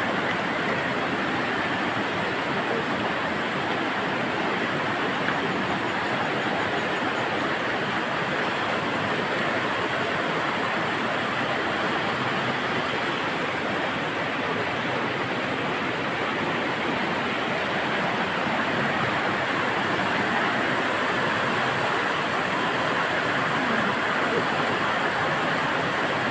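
Angat River water rushing in a steady, even stream.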